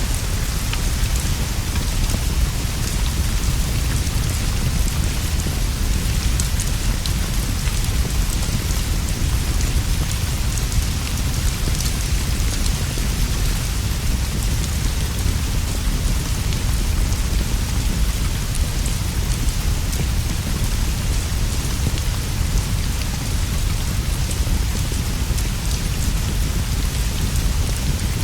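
Steady rain falling, an even hiss with a constant low rumble underneath and scattered small ticks of drops.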